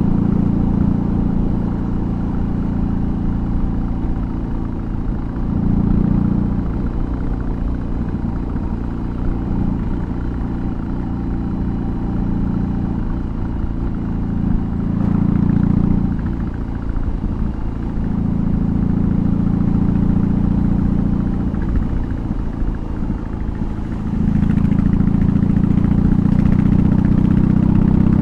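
BMW R18's big boxer twin running through a custom exhaust while riding, the throttle opened several times so the engine note swells louder for a few seconds at a time, staying louder for the last few seconds.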